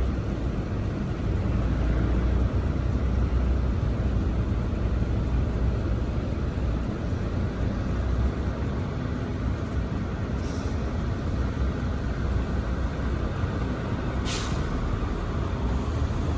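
Semi-truck's diesel engine and road noise rumbling steadily, heard from inside the cab. Two brief hisses cut in, a faint one about ten seconds in and a louder one about fourteen seconds in.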